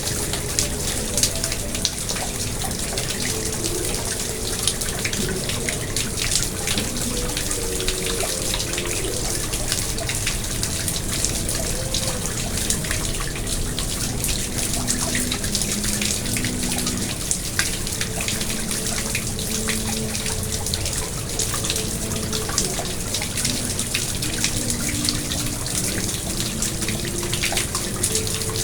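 Water in a garden pond splashing and trickling steadily, with many small drips and splashes.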